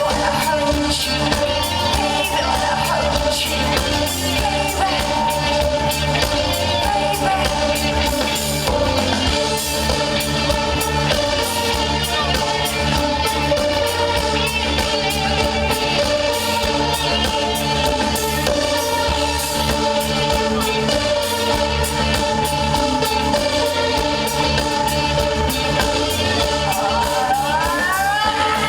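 Live band music: sustained tones and a wavering melodic line over a dense, steady backing, with rising pitch sweeps near the end.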